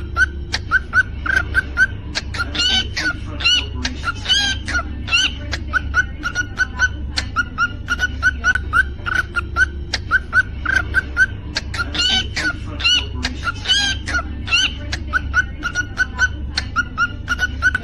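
Cockatiel whistling its song: quick short chirps about three a second, twice giving way to a run of rising whistled notes, over a steady low hum.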